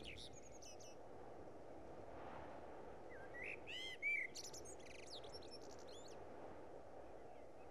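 Faint songbird chirps and short whistled calls, busiest from about three to six and a half seconds in, over a low steady background hiss.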